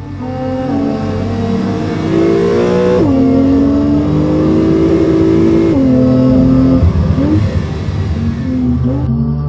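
2022 Porsche 911 Targa 4 GTS's twin-turbocharged 3.0-litre flat-six accelerating hard, its pitch climbing and dropping sharply at upshifts about three seconds in and again near six seconds, with a few short revs near the end.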